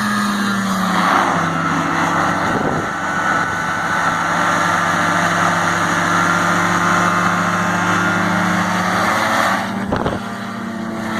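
Hovercraft engine and lift fan running steadily with a rushing air noise. The engine note drops about a second in and rises again near the end. A brief knock comes shortly before the end, when the sound dips for a moment.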